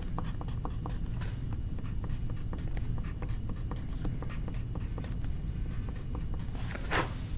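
A coloring tool scratching and tapping on paper in many short, quick strokes as small snowflake shapes are drawn. There is one louder, brief rasp near the end.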